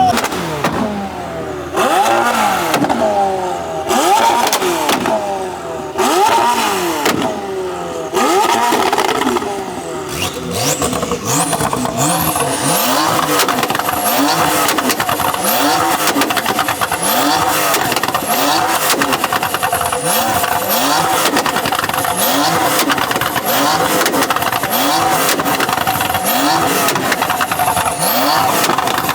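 Car engine revved hard in separate rising and falling blips for about the first ten seconds. It is then held against a two-step launch limiter: a steady, rapid stutter of ignition cuts and exhaust pops under the wavering engine note.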